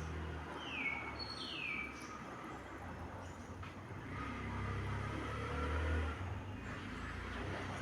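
Two short falling whistled bird calls about a second in, over a steady low rumble.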